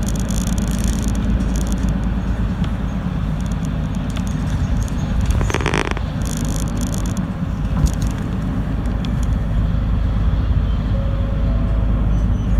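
Engine and road noise of a route bus heard inside its cabin while it drives: a steady low rumble, with a brief louder rush about five and a half seconds in.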